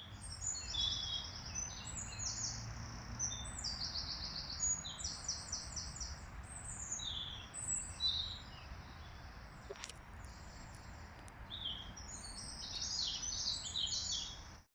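Several small songbirds singing and calling in woodland, with quick, high-pitched trilled phrases overlapping one another. A single sharp click about ten seconds in.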